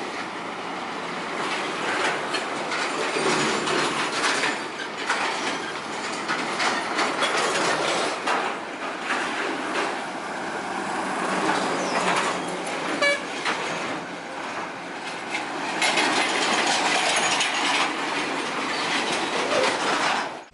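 Heavy vehicle passing with a loud, continuous rattling and clattering, full of rapid metallic knocks that swell and fade.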